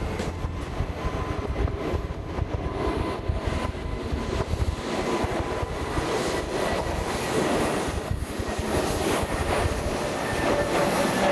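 Jet airliner engine noise: a steady, broad rumble that grows brighter and slightly louder in the second half.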